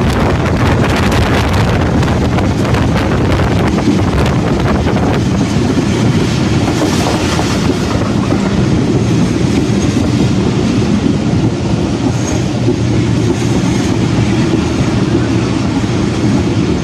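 Moving passenger train heard from an open carriage door: a loud, steady rumble of wheels on the rails, with rapid clattering over the first few seconds.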